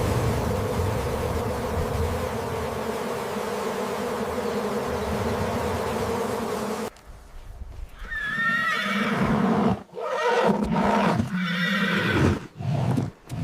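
A steady rushing noise with a low hum, which cuts off about seven seconds in and gives way to a string of animal calls with wavering pitch.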